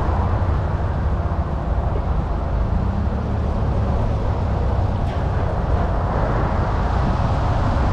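Semi truck running down the road: a steady low engine and road rumble.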